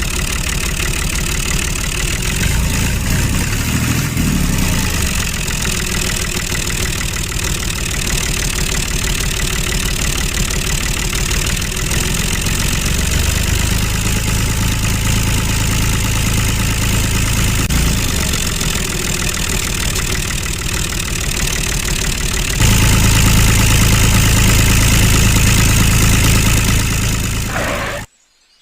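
An engine running steadily, getting louder and steadier about three-quarters of the way through and cutting off abruptly just before the end.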